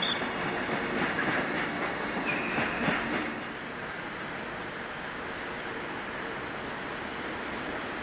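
Train wheels running on the rails with a brief high wheel squeal. After about three seconds this gives way to a quieter, steady rushing noise.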